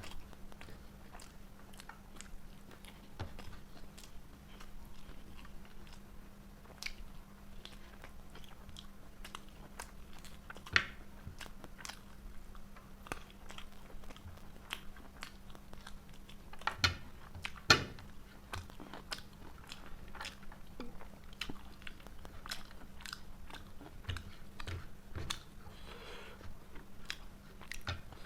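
Close-miked eating: steady chewing and biting with wet mouth clicks and smacks of fried rice and chicken. A few sharper, louder clicks come about a third of the way in and twice more just past the middle.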